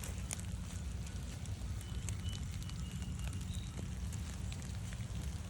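Light, gentle rain falling in scattered pattering drops, over a steady low rumble of wind on the microphone. A few faint short high bird notes come in about two seconds in.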